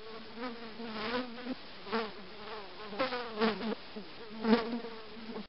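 Housefly buzzing in flight, a steady drone with its pitch wavering slightly and growing louder in swells about once a second, as if the fly passes close; it cuts off suddenly at the end.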